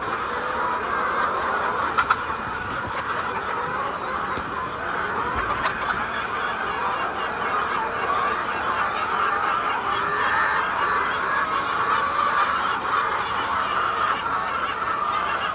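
A large flock of laying hens clucking and calling all at once in a steady, dense chatter. A couple of sharp clicks stand out, about two and six seconds in.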